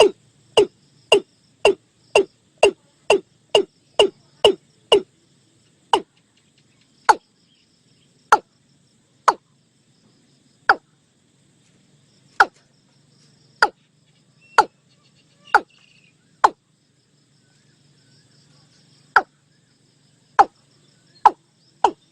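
Watercock calling a series of short, sharp notes, about two a second at first, spreading out to about one every second or more, then quickening again near the end. Faint insect trilling behind.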